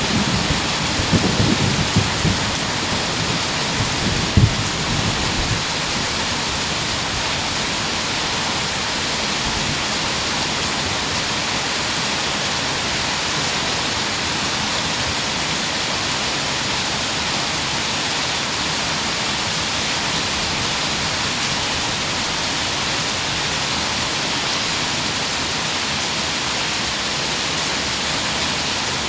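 Heavy rain pouring steadily, with a low rumble of thunder in the first few seconds that dies away.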